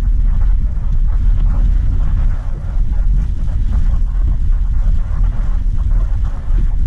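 A car driving along a road, with a steady low rumble of engine and road noise and a fainter hiss of tyres above it.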